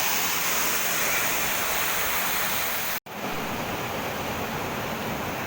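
Waterfall water rushing in a steady, even roar. It cuts out for an instant about three seconds in and resumes slightly duller.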